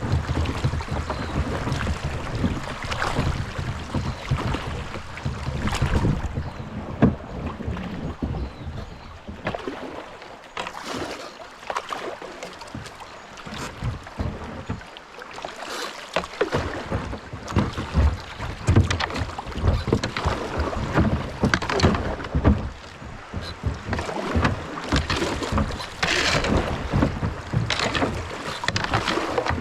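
Kayak paddle strokes and water splashing around the hull in uneven strokes, with wind rumbling on the microphone at times. It goes quieter for several seconds in the middle.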